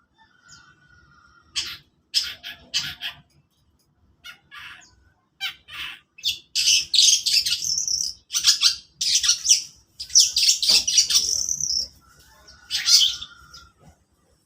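Long-tailed shrike (cendet) singing: a run of harsh, scratchy chattering phrases, densest and loudest in the middle, with a thin drawn-out note near the start and again near the end.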